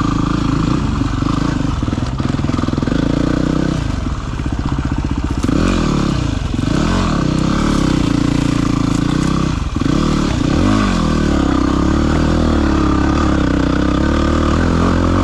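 Dirt bike's single-cylinder four-stroke engine running under the rider, its revs rising and falling repeatedly as it picks its way over rough ground.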